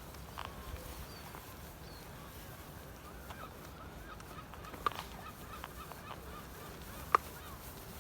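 Birds calling: a run of short chirps, with two louder, sharp sounds about five and seven seconds in.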